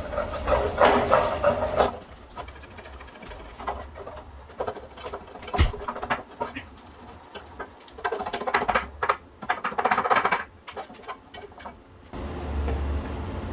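Scraping and scrubbing rust scale and old crust off a cast iron skillet, coming in two spells of scratchy, squeaky strokes with a sharp knock in between.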